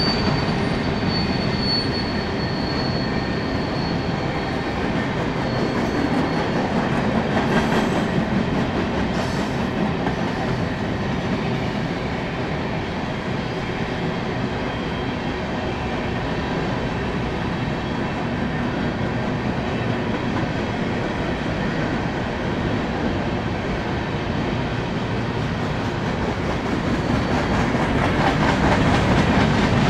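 Union Pacific freight train rolling past: a steady rumble of steel wheels on rail, with a thin high wheel squeal in the first few seconds that fades away. The noise swells again near the end.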